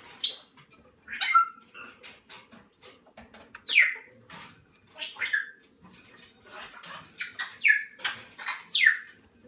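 Moluccan cockatoo chicks giving short, harsh calls that fall in pitch, about six of them, with small clicks and taps between. These are food-begging calls during hand-feeding.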